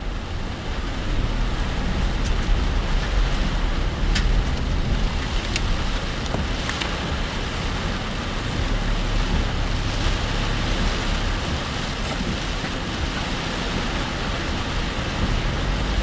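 A car driving through heavy typhoon rain, heard from inside: a steady low rumble of engine and road noise under a hiss of rain on the car, with a few sharp ticks.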